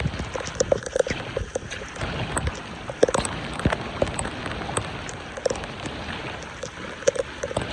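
Running, splashing water with scattered sharp knocks and clicks throughout.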